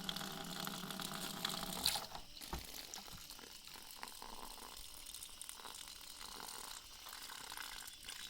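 A steady wash of water sound with scattered small clicks and knocks; it changes suddenly about two seconds in and turns quieter and thinner.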